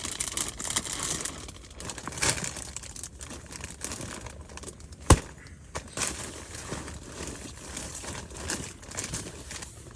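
Crinkling and rustling of camping gear being handled and packed, with one sharp click about five seconds in.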